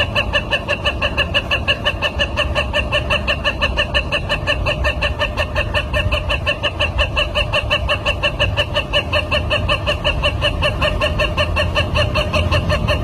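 A bird calling in a fast, steady run of identical pitched notes, about five a second, without a break.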